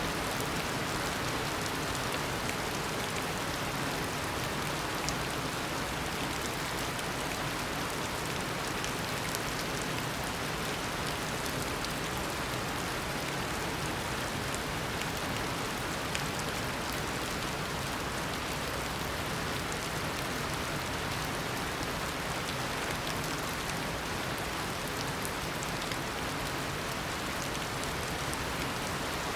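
Heavy tropical rain falling steadily, a constant hiss of a downpour with scattered drop ticks.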